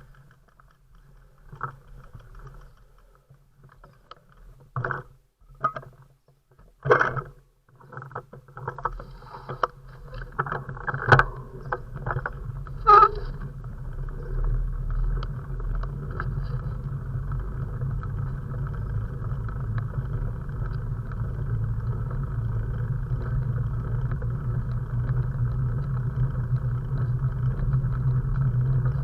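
Wind and riding noise on a camera carried on a bicycle: scattered knocks and rattles at first, then a steady rushing noise that sets in about halfway through and slowly grows louder.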